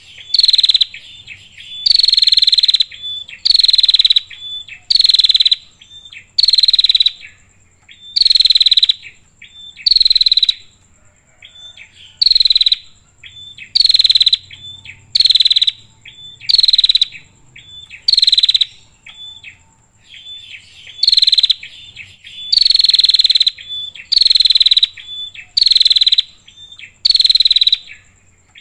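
Female prinia (prenjak) calling: a loud, buzzy note that falls in pitch, repeated about once a second, with short clipped notes between, and one pause of about two seconds past the middle. A faint steady high-pitched tone runs underneath.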